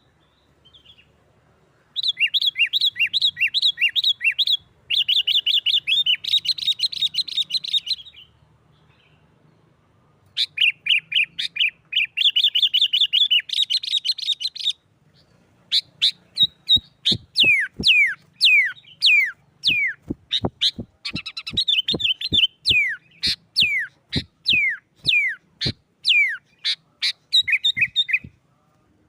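Sooty-headed bulbul giving agitated, rapid chattering calls in three bursts, then a long run of sharp downward-slurred notes, about two a second. These are the noisy fighting-style 'nggaruda' calls used to provoke other bulbuls.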